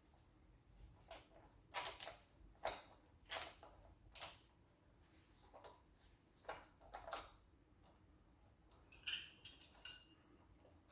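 Faint, irregular metallic clicks and clinks of hand tools and loose engine parts being handled, a few near the end ringing briefly like small steel pieces knocking together.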